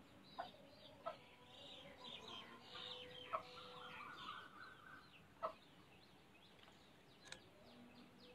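Near silence: faint bird calls in the background, with a few soft clicks.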